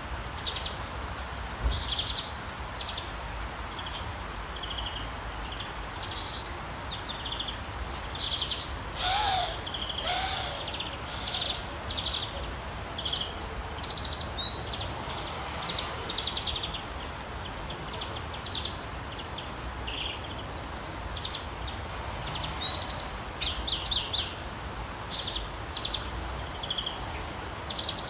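Several birds chirping and calling in short, scattered notes, with a couple of quick rising whistles, over a steady hiss of rain.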